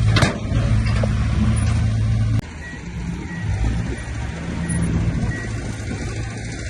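Heavy construction-machine diesel engine running steadily, with a sudden drop in level about two and a half seconds in. After the drop, faint short beeps repeat about every 0.7 s.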